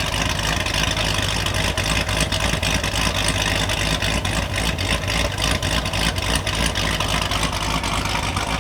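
The supercharged V8 of a stage 4 C7 Corvette Z06 idling, with a choppy, uneven beat.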